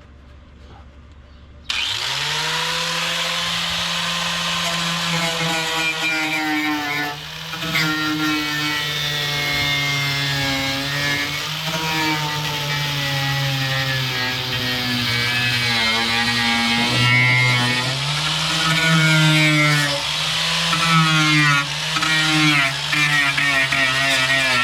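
Handheld electric power tool switching on about two seconds in and running, its pitch dipping and recovering again and again as it is pressed into the work.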